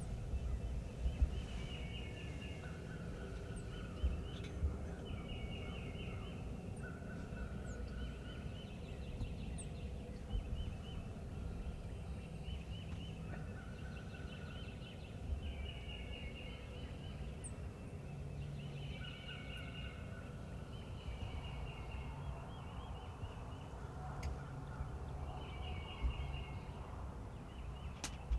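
Wild turkey gobblers gobbling over and over, about every second or two, at two different pitches that overlap and answer one another, with a few faint songbird chirps. A sharp click near the end.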